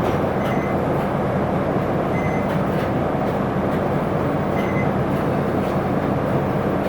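Isuzu Erga city bus (PKG-LV234L2) running, heard from inside the cabin: a steady diesel engine drone mixed with road noise, with a few faint brief high squeaks.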